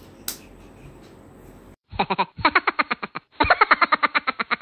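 A toy baby doll's electronic sound through its small speaker: a quick run of short, pitched, repeated chirps, about eight a second, starting suddenly about two seconds in after faint room tone.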